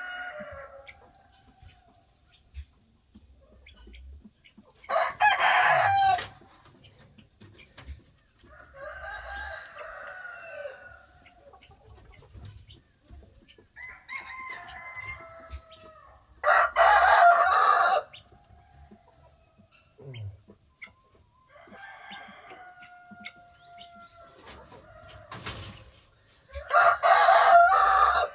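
Roosters crowing: one close rooster crows loudly three times, about 5 s, 17 s and 27 s in, each call lasting a second or so, while other roosters crow more faintly in between.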